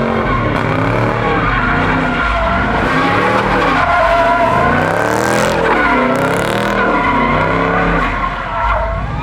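A car engine revving up and down again and again, about once a second, with tyres skidding, as a car being driven in hard slides.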